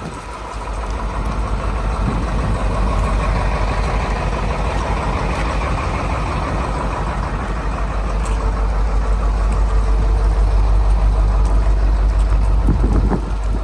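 Detroit Diesel 8.2L V8 engine of a 1985 GMC 7000 truck idling steadily.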